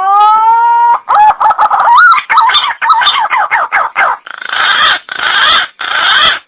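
Green pigeon (punai) calling loudly: a drawn-out rising whistle, then a fast run of wavering whistled notes, ending in three harsher, rasping notes.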